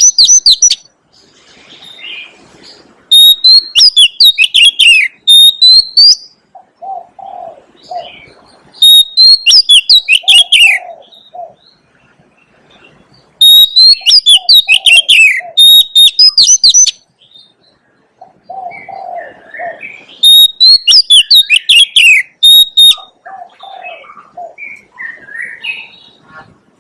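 Oriental magpie-robin singing loud phrases of varied whistled notes, a burst every four to six seconds, five in all. Softer, short low notes sound in the gaps between phrases.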